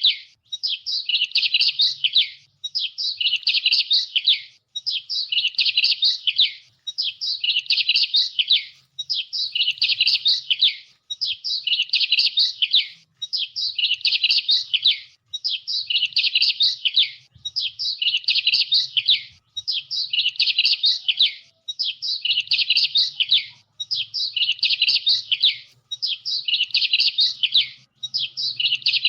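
Songbird chirping, one high twittering phrase of about two seconds repeated over and over with short gaps, alike each time, so even that it sounds like a looped recording.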